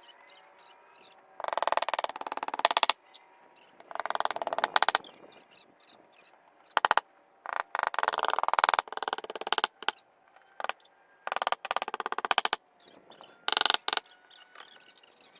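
Sped-up sound of wall repair work: irregular bursts of rapid clicking and rattling, each a second or so long, with quieter gaps between.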